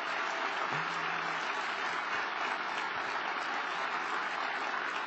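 A large audience applauding steadily, sustained clapping after a speaker's applause line, with faint crowd voices and a brief shout about a second in.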